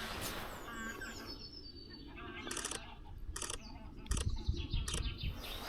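Several wild birds calling outdoors by the sea, a string of short chirps and sharper repeated calls, with a low rumble on the microphone in the second half.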